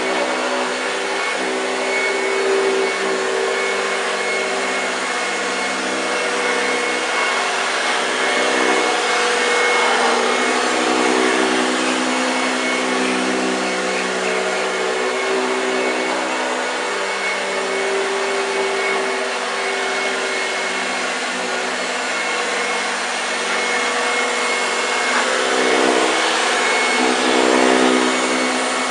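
1965 Hoover Junior 1334A upright vacuum cleaner running continuously with a steady motor hum and rushing airflow. The level swells and eases slightly every few seconds.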